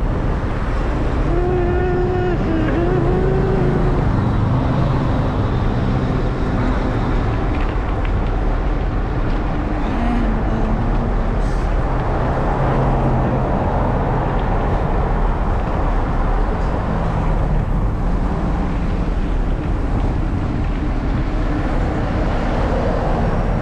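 Road traffic running steadily past a rider, under a constant low wind rumble on the microphone. About one to four seconds in, a short wavering tone sounds over it.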